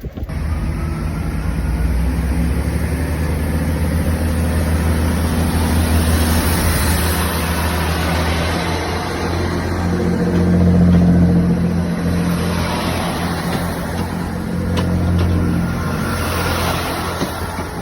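Class 166 diesel multiple unit's diesel engines running under power as the train moves off, a deep, steady drone that swells briefly about ten seconds in.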